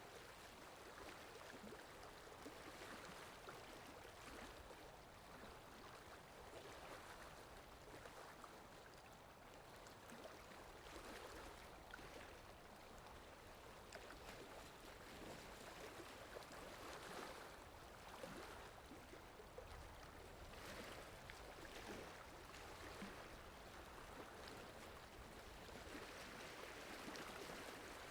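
Faint recorded flowing-water ambience, a soft steady rushing that gently swells and eases every few seconds.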